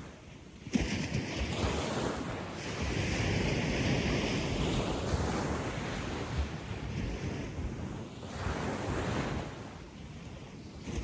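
Gentle sea waves washing up a sandy beach: a wave breaks and rushes in about a second in, hissing as it spreads, then fades, and another surge comes in near the end.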